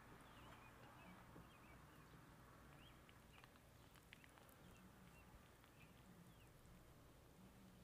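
Near silence, with faint bird chirps scattered through it and a few soft clicks.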